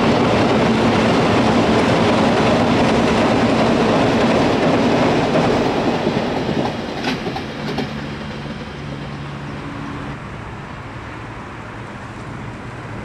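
Container freight train's wagons rolling across a rail bridge: a loud steady rumble and clatter of wheels on rails that fades away over a few seconds as the end of the train passes. A few sharp clicks from the last wheels come about seven seconds in, followed by a brief fainter hum.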